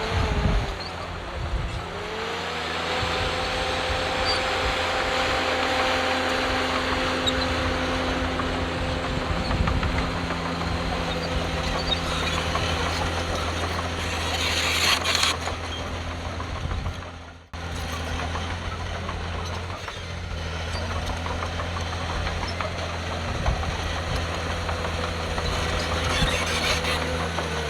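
Diesel engine of heavy earthmoving machinery running steadily under load, its pitch dipping and then rising again in the first couple of seconds. The sound drops out sharply for an instant about two-thirds of the way through.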